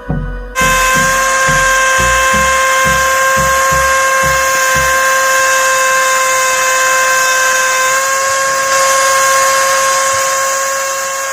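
A small electric motor switches on about half a second in and runs with a steady high whine. Background music with a beat fades out under it within the first five seconds.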